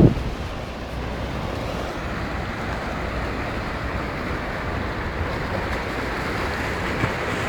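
Steady rush of rough Mediterranean surf, with wind on a smartphone microphone.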